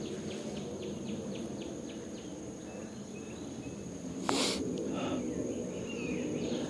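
Outdoor nature ambience: a steady high insect tone, with runs of quick repeated chirps, about four or five a second, near the start and again near the end. A short, loud burst of noise sounds about four seconds in.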